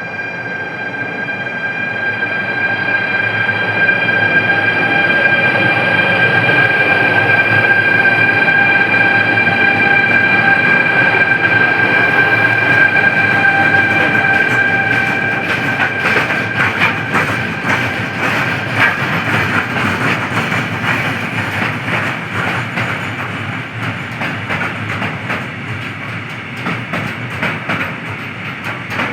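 Train passing at speed. A steady high whine lasts for about the first half, then the wheels clatter over the rail joints in a long run of clicks as the cars go by.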